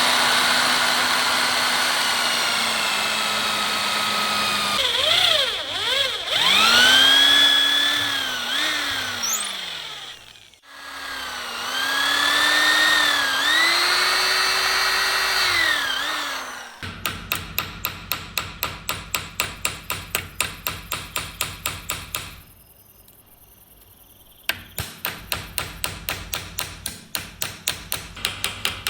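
Small electric power tool motor running with a steady whine, its pitch dipping and rising several times as its speed changes. It stops, and a run of sharp, regular clicks follows, about three or four a second, pausing briefly for a couple of seconds.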